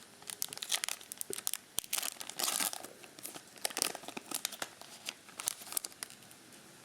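Crinkling and tearing of a foil trading-card pack wrapper being ripped open and handled, a dense run of crisp crackles and short rips.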